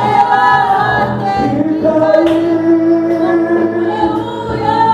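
Gospel worship song: sung voices over instrumental backing, holding one long note in the middle.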